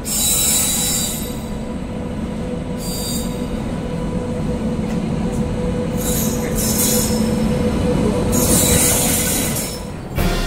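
Passenger train hauled by a WAP7 electric locomotive running into a station, with a steady rumble and hum. Bursts of high-pitched wheel squeal come at the start, around three seconds in, around six to seven seconds, and again from about eight to nearly ten seconds in.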